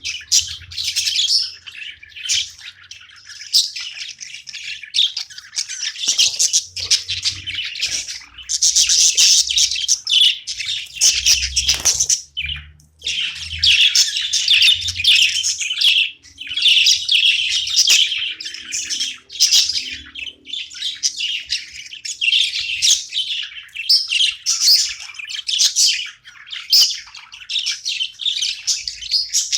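Pet budgerigars chirping nonstop in rapid, high chatter, with one short pause a little before the middle.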